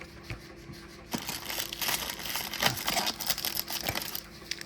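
Crinkling and tearing of a foil trading-card pack wrapper being opened, starting about a second in, with a steady faint hum underneath.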